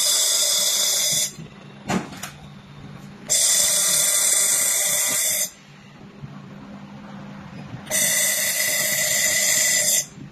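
Handheld 4-in-1 laser welding machine firing three times, each burst a loud, high hissing buzz of about two seconds that starts and cuts off sharply.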